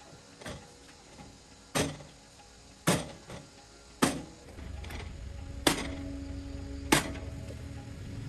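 A hammer striking metal parts five times, roughly one blow a second, with a short ring after some strikes. A low steady rumble comes in about halfway through.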